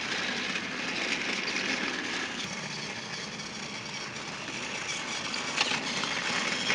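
Battery-powered Trackmaster toy train running on plastic track, a steady small-motor whirr.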